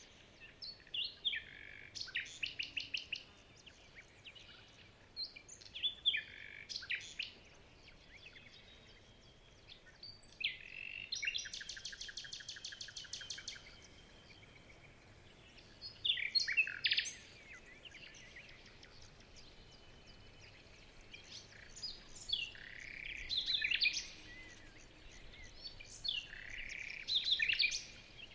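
Birds singing: short phrases of chirps and quick trills, a new phrase every few seconds, over a faint steady background.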